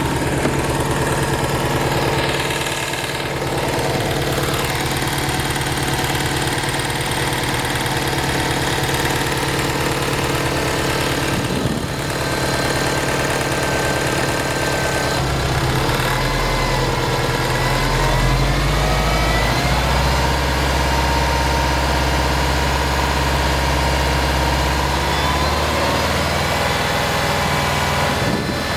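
2009 Subaru STI's engine running with a tick or light knock that follows the RPMs, which the owner cannot place. The engine note changes about halfway through and stays different for about ten seconds.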